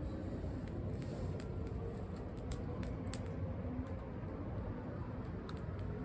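Dry pine-needle and twig kindling crackling: a few scattered sharp snaps over a steady low rumble.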